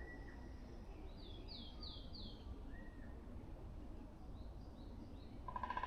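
Forest birds calling: a run of four quick, falling high notes about a second in, fainter echoes of them later and a short whistle. Near the end a woodpecker starts up with a louder, rapid pulsing sound.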